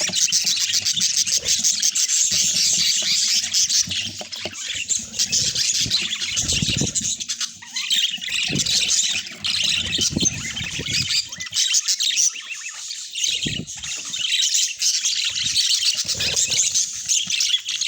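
Budgerigars chattering continuously in a dense, high warble, with a few low thumps about six and ten seconds in.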